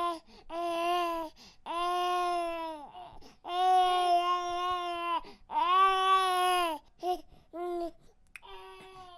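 Baby crying in a series of separate, steady-pitched cries with short breaths between them, about six or seven in all, the longest near the middle lasting almost two seconds.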